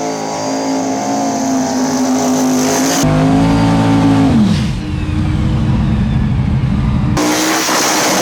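Big-block twin-turbo Chevy Nova drag car running hard at high revs down the track, its pitch dropping sharply about four and a half seconds in.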